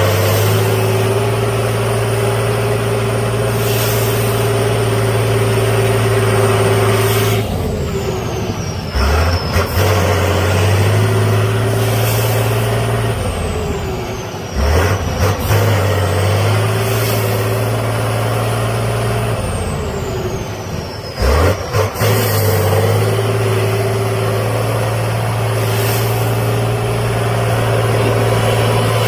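Mud trucks' engines running at sustained high revs, each stretch held steady for several seconds, in a few clips cut together.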